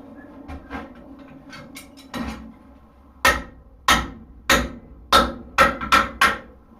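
Blacksmith's hand hammer striking a hot horseshoe on an anvil while forging it into a hoof pick: a few light taps, then about seven heavy blows at roughly two a second, each with a short ring.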